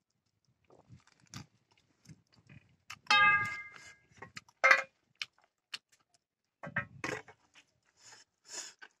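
Close-up eating sounds: a man chewing and biting pork leg, rice and greens, with scattered wet mouth smacks and clicks. About three seconds in comes a short steady pitched sound, a hum or whine, the loudest thing in the stretch, and a briefer one a moment later.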